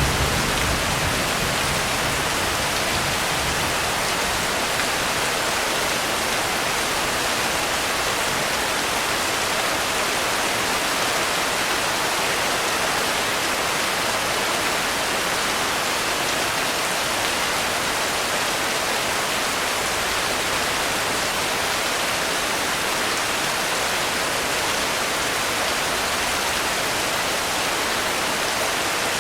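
Steady, even rain hiss with no breaks. A low thunder rumble tails off in the first second.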